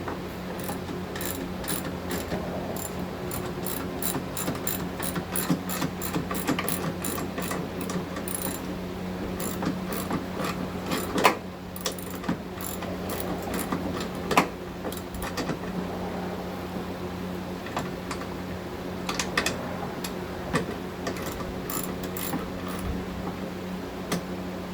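Ratchet wrench clicking in quick runs of strokes, with two louder knocks near the middle, over a steady low hum.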